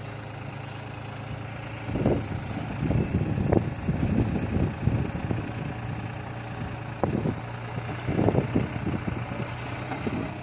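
Tractor engine running steadily, with bursts of knocking and clatter starting about two seconds in and again a few seconds later.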